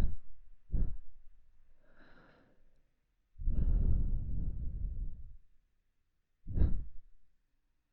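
Warm breath blown close into the microphone's ear: a few short puffs and one long, breathy exhale lasting about two seconds midway.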